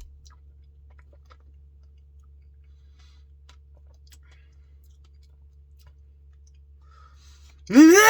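Faint clicks and chewing sounds of someone eating ice cream, over a faint low hum. Near the end comes a loud, drawn-out wordless vocal cry that rises in pitch.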